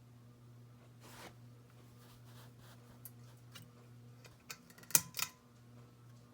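SMC DC42 ceiling fan running at a medium speed, its motor giving a faint steady hum. Scattered light clicks through it, with two sharp clicks about five seconds in being the loudest sound.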